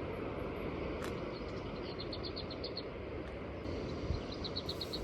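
Lesser whitethroat singing: two short, dry rattles of quick repeated notes on one high pitch, each lasting about a second and a half, the second near the end. A steady background hiss runs underneath.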